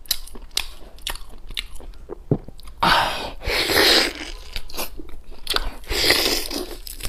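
Close-miked wet chewing and biting on boiled beef rib meat, with many short mouth clicks and smacks. Two longer, noisier spells of biting and tearing at the meat on the bone come about three and six seconds in.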